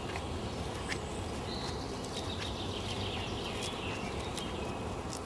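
Woodland ambience: birds calling over a steady low outdoor rumble. A high, thin birdsong runs from about a second and a half in to about four seconds in, with short chirps scattered around it.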